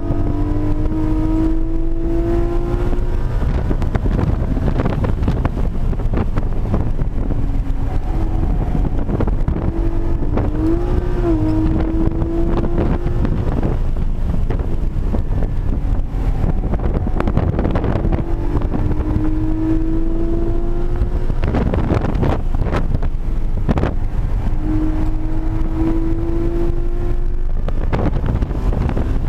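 Porsche 718 Cayman GT4's 4.0-litre flat-six driven hard on track, heard inside the cabin. Its pitch climbs several times as the car accelerates, breaking off between climbs, over steady road and wind noise.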